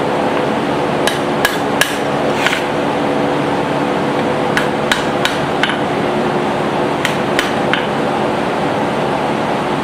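Hand hammer striking hot steel on an anvil while shaping a small forged hammer head: three short runs of three or four blows each. A steady mechanical drone runs underneath.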